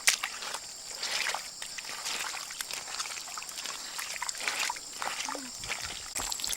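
Water splashing and trickling in short irregular bursts, over a steady high-pitched whine.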